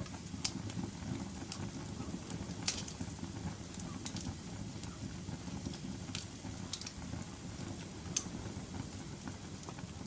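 Wood fire burning with a steady low roar of the flames and irregular sharp crackles and pops, the loudest few seconds apart.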